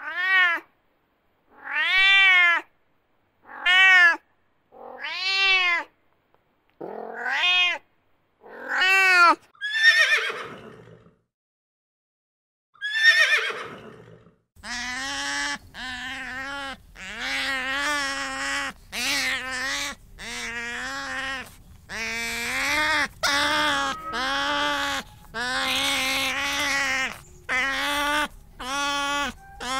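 Cat meowing, about eight separate meows a second or two apart. Then, from about halfway, a fast run of short, repeated animal calls over a steady background noise.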